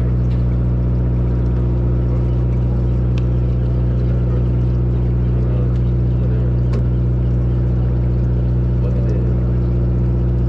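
A boat's engine idling steadily, an even low hum with a constant pitch.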